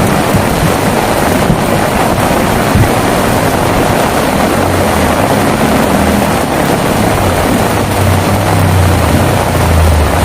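Heavy rain falling steadily, with a low rumble that rises from about four seconds in and grows louder toward the end.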